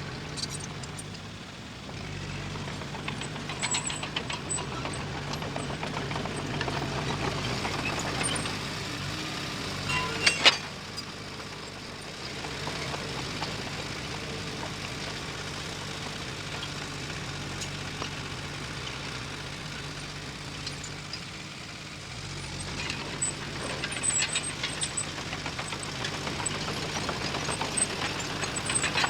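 Heavy diesel earthmoving machine running and working, its engine note rising and falling in load. Scattered metallic rattles and clanks run through it, with one sharp loud bang about ten seconds in.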